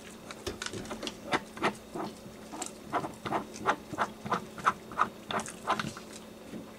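A person chewing a mouthful of Big Mac close to the microphone: wet, clicky mouth sounds in an even rhythm of about three chews a second.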